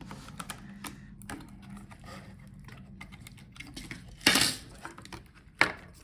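Small clicks and taps of laptop circuit boards and parts being handled as the graphics board is disconnected from the motherboard. There is a louder scrape about four seconds in and a sharp click near the end.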